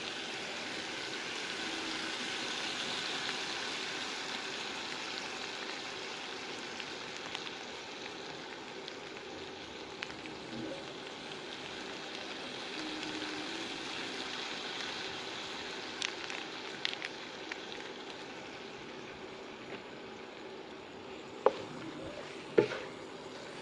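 Chicken pieces frying in oil in a wok, a steady sizzle, with a few light clicks and then two sharp knocks near the end as the wooden spatula strikes the pan.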